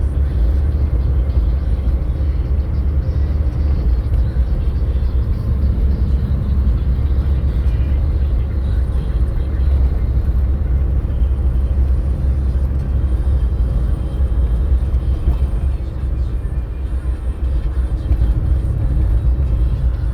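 Steady low rumble of a car driving, with no change in pace or pitch.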